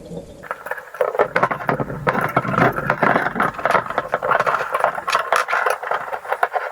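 Metal tools and parts rattling and scraping against each other in quick, irregular clicks, handled continuously during hands-on work on a motorcycle cylinder head.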